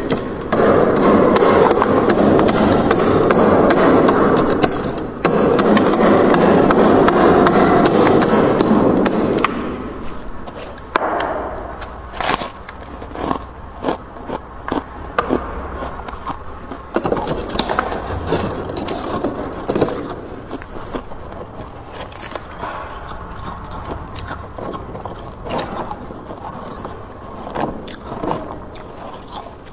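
Frost built up inside a freezer being scraped in two long, loud scraping passes over the first nine seconds or so. After that come quieter, irregular crisp scrapes and crackles of frost and ice.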